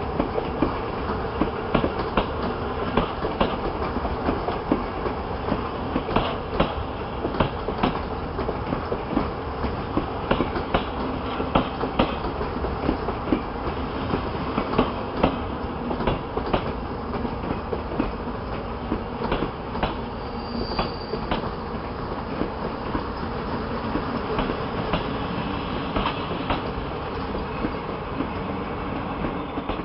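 Coaches of a CFR passenger train rolling past, a steady rumble with the wheels clicking irregularly over rail joints.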